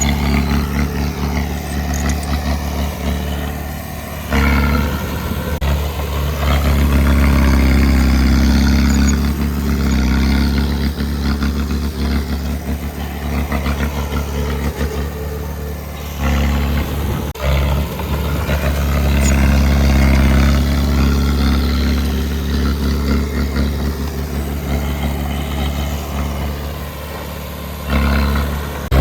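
Heavy diesel engine of earthmoving equipment running steadily, stepping up abruptly in loudness three times, at about 4, 16 and 28 seconds in.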